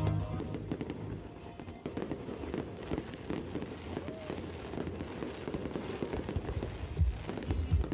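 Fireworks going off continuously: a dense run of crackling pops with heavier low booms about seven seconds in.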